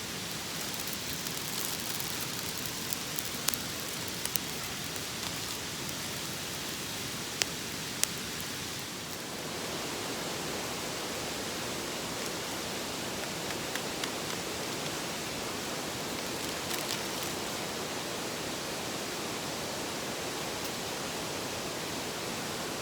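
A pot of instant ramen boiling over a small wood campfire: a steady hiss with a few sharp crackling pops in the first half. The hiss grows a little louder about nine seconds in.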